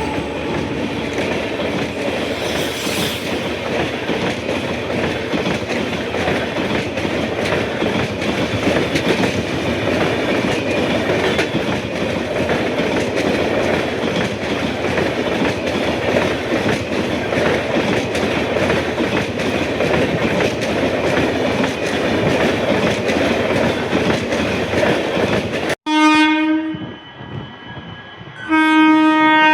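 A train running past on the track, with steady rumble and wheel clatter over the rail joints. After an abrupt cut, a locomotive horn sounds one short blast and then a second, longer one near the end.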